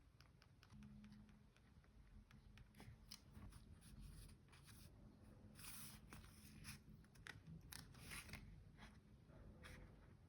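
Faint paper-crafting handling sounds of diary decorating: scattered small taps and clicks, with a few short rustles or snips of paper, the clearest about six and eight seconds in.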